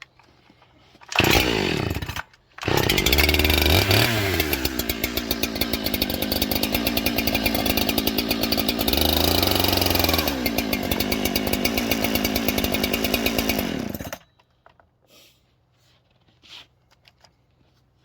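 Two-stroke chainsaw engine fires briefly about a second in, stops, then starts again and runs for about twelve seconds, revved up twice, before cutting off suddenly.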